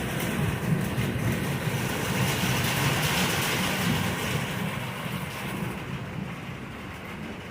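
Long rolling rumble of thunder, a deep steady roll that slowly fades away over the last few seconds.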